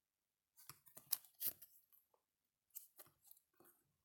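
Trading cards being handled, faint short crisp rustles and clicks in two clusters, about a second in and again about three seconds in.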